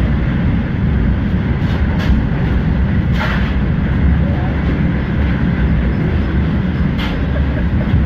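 Moving passenger train heard from inside the coach: a steady low rumble of wheels on the track. A few brief sharp sounds cut through about 2, 3 and 7 seconds in.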